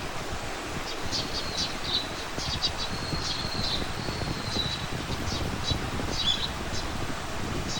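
Small birds chirping with many short high notes and a few brief whistled phrases, over a steady low rumble.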